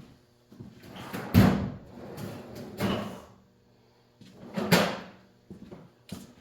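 Rubber mallet blows on the motorcycle's wheel assembly: three heavy thuds about one and a half to two seconds apart, the first the loudest, with a few lighter knocks between.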